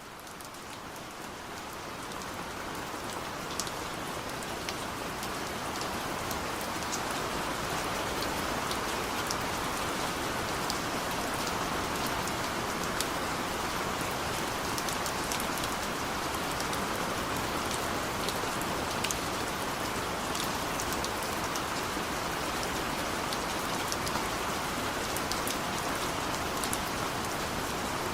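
Steady rain falling, with scattered individual drops ticking through the hiss. It fades in over the first several seconds, then holds at an even level.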